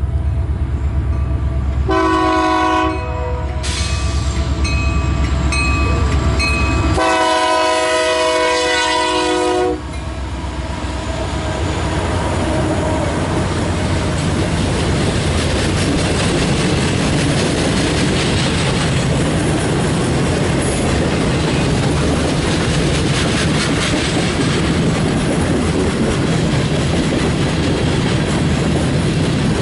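Eastbound freight train led by two Union Pacific diesel locomotives: the engines rumble as they approach, and the air horn sounds a short blast about two seconds in and a longer one about seven seconds in. Then the long string of refrigerated and box cars rolls steadily past, wheels clattering on the rails.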